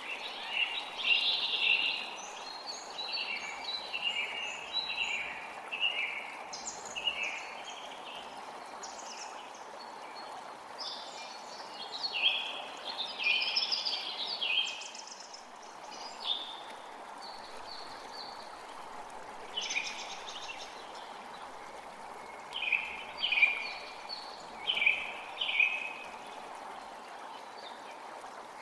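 Forest creek running with a steady rushing sound, while songbirds sing short chirping phrases over it in several bursts, busiest near the start, in the middle and again toward the end.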